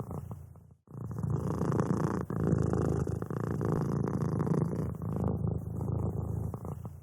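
Domestic cat purring, a steady low rumble that fades and breaks off briefly just under a second in, then resumes and carries on.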